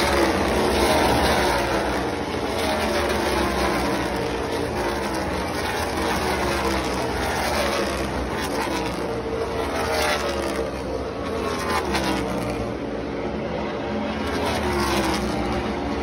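Field of NASCAR stock cars' V8 engines running at speed around the track: a continuous loud drone of overlapping engine notes, each dropping in pitch as a car goes by.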